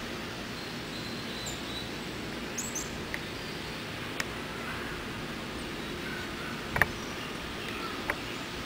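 Faint, short bird chirps over steady outdoor background noise, with a few sharp clicks about four, seven and eight seconds in.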